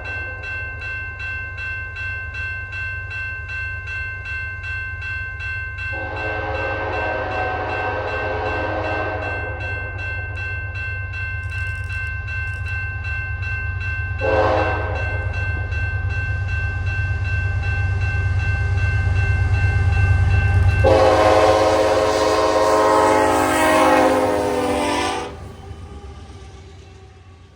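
Westbound freight led by two CP AC4400CW diesel locomotives sounding its horn: a long blast, a short blast, then a final, loudest long blast, the crossing pattern. A bell rings steadily under the low rumble of the approaching train, which grows louder. The bell stops at the last blast, and the sound drops off quickly as the horn cuts out.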